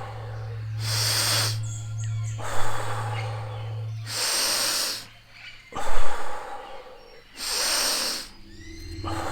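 A person breathing deeply and rhythmically, Wim Hof power breaths drawn in and blown out, about three full breaths.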